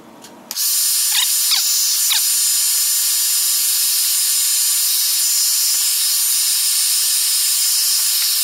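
Hot-air blower switched on about half a second in, then running steadily with a loud, even hiss and a faint high whine. It is heating the glass to soften the adhesive holding the iPad 2 digitizer.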